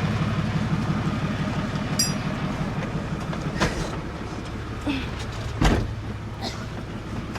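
Truck engine running steadily, slowly fading, with a few short knocks and thumps in the second half.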